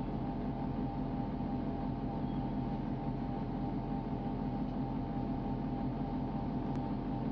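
A steady mechanical hum: several held tones over a low noise, unchanging in level throughout.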